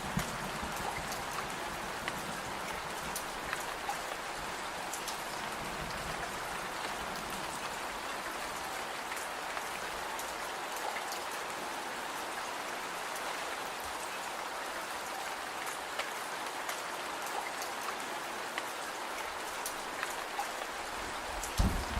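Steady rain falling, with many small scattered ticks of drops throughout and a low thump or two just before the end.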